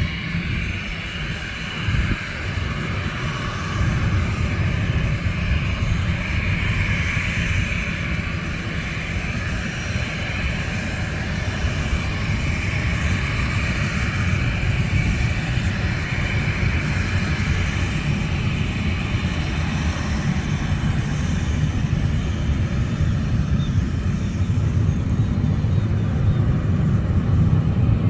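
Jet airliner engines running: a steady low rumble with a wavering whine above it, growing a little louder near the end.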